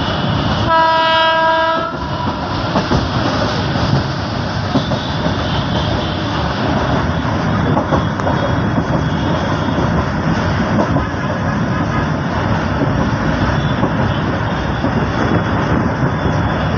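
Passenger train heard from an open carriage doorway, its wheels running noisily along the track. The locomotive's horn sounds once, for about a second, near the start.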